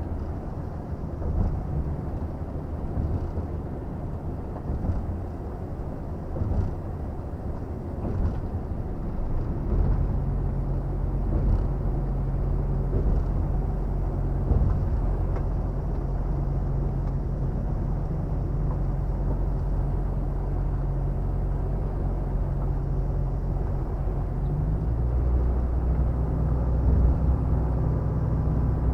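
Volvo FH 460 truck's six-cylinder diesel engine running under way, heard from the cab. At first it is a low rumble with road noise. From about ten seconds in it settles into a steady drone, which shifts pitch and grows a little louder about 25 seconds in.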